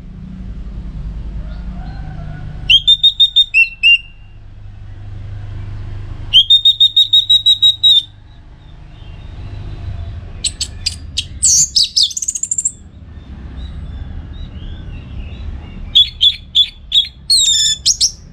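Orange-headed thrush singing: four loud bursts of song, each a rapid run of repeated notes that sometimes climb into higher, sharper notes, with pauses of a couple of seconds between them. A low rumble sits under the song.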